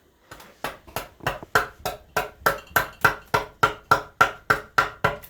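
Rapid, even blows of a mallet driving a wood chisel into wood, about three and a half strikes a second, each a sharp knock with a short ring, growing louder over the first couple of seconds.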